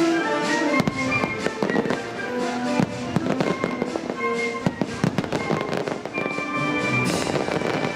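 Fireworks bursting in quick succession, many sharp bangs and crackles over orchestral show music.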